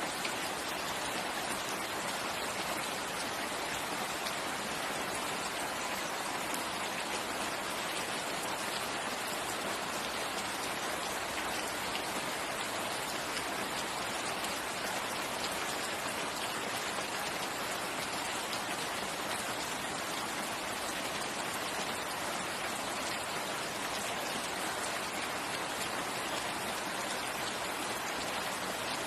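Steady rain falling on a forest, an even hiss of many drops hitting leaves and the ground with no let-up.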